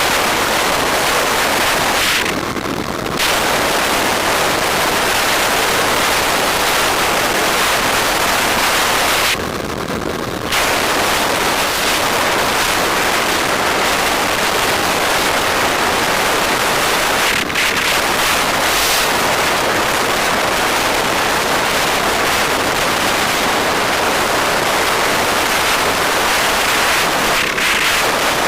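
Heavy wind noise on the microphone of a moving bike, a steady rushing hiss that eases briefly twice.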